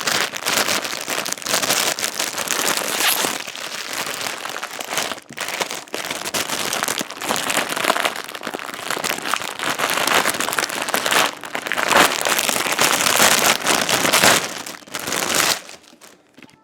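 Plastic packaging crinkling and rustling as a plush toy is unwrapped, a dense crackle that goes on with rises and dips and stops shortly before the end.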